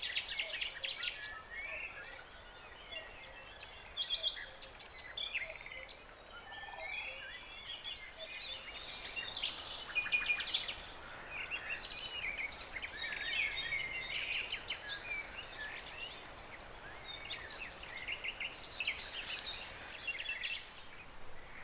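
Several songbirds singing and calling together, with many overlapping chirps and trills, including a quick run of repeated notes a little after the middle, over a faint steady background hiss.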